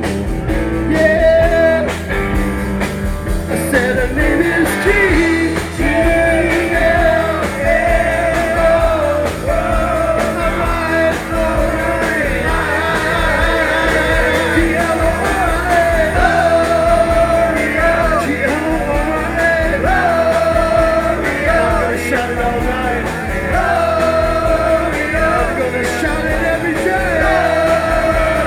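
Live rock band playing a rock and roll number: guitar, bass and drums with a lead melody wavering over the top.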